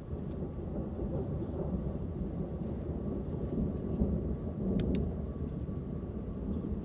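Low rolling thunder rumbling over steady rain, swelling to its loudest about four to five seconds in. A couple of sharp ticks come near the peak.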